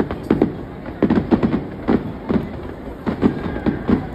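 Aerial fireworks bursting in a rapid, irregular string of bangs, several a second.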